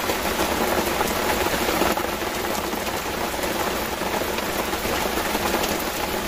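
Heavy rain pouring steadily onto a river's surface, a dense, even hiss.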